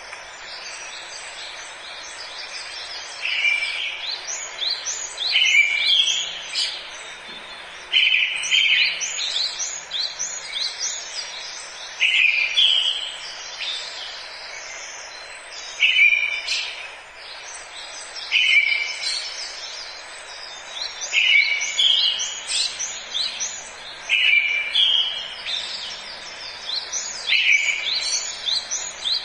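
Forest birdsong: several birds chirping, with one bird repeating a short phrase every two to three seconds, a buzzy note followed by quick higher chirps, over a steady background hiss.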